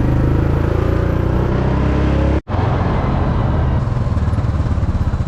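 Motor vehicle engine running steadily while driving. The sound breaks off abruptly about two and a half seconds in, and a similar engine noise carries on after the break.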